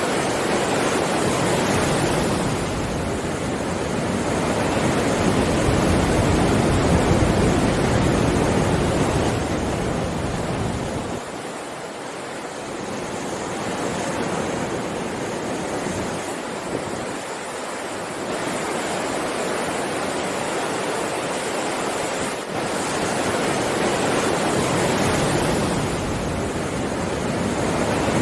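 Heavy ocean surf: a continuous rushing wash of breaking waves that swells and eases over several seconds, dipping quietest about eleven to twelve seconds in.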